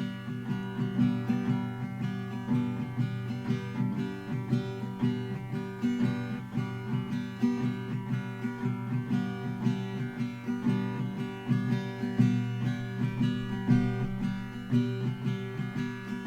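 Acoustic guitar music, strummed and plucked, playing steadily.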